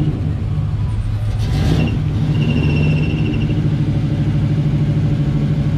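Car engine running close by: a loud, steady low exhaust note with an even, rapid pulse.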